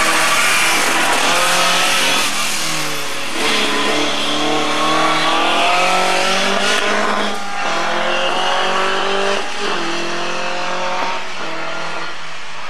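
Vauxhall Astra Mk1 rally car's engine revving hard under load, its pitch climbing and dropping back several times as it changes gear.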